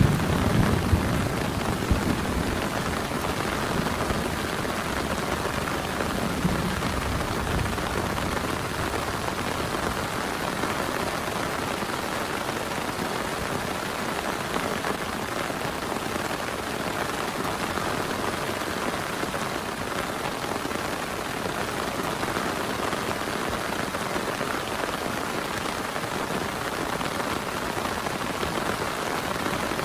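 Steady heavy rain, a dense even hiss. A low rumble in the first several seconds dies away.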